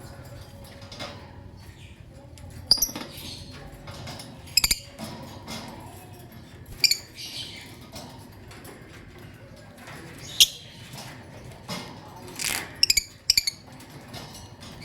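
Lovebird giving short, sharp, high-pitched chirps, one every two seconds or so, with a quick cluster of three near the end.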